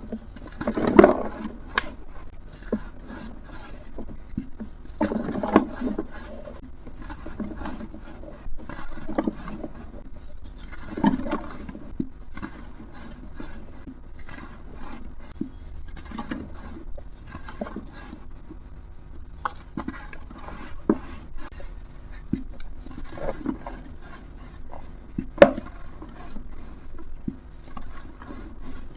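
Dry, brittle material being crumbled, an irregular run of crackles and crunches. There are louder bursts about a second in, around five to six seconds, around eleven seconds, and a sharp crack about twenty-five seconds in.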